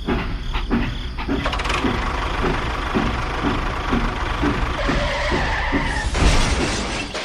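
A small machine running with a regular knock about three times a second under a scraping hiss, a brief squeal about five seconds in, and a loud jolt just after.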